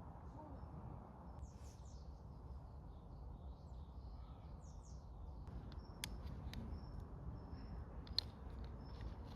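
Faint birds chirping in a forest over a low steady outdoor rumble, with a few sharp clicks in the second half.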